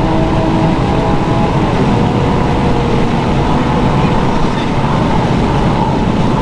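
Infiniti G37x's 3.7-litre V6 running steadily through a muffler- and resonator-deleted exhaust, giving a loud, even drone with no sharp revs.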